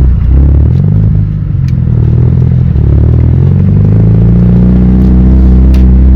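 Car engine and exhaust under way: the revs climb, drop briefly about a second in as if for a gear change, then climb again and settle into a steady drone.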